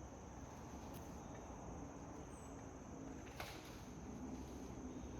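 Quiet outdoor ambience: a steady, high-pitched insect drone, with a single sharp click about three and a half seconds in.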